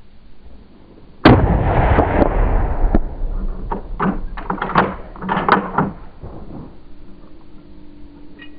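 A single loud gunshot about a second in, followed by a couple of seconds of rough noise, then a run of shorter, sharper sounds that die away before the end.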